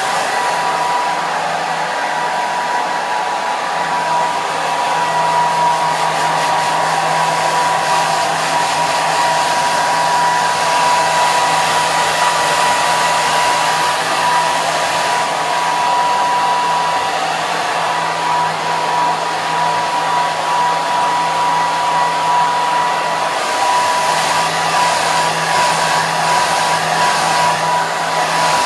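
Hair dryer running steadily: a continuous rush of air with a steady high whine from the motor and fan and a low hum underneath.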